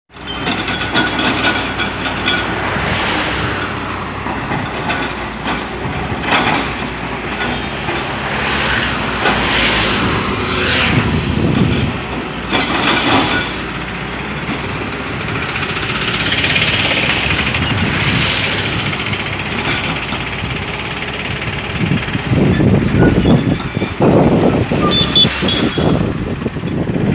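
Heavy road-construction machinery running with a continuous, noisy diesel rumble, growing louder in several surges near the end.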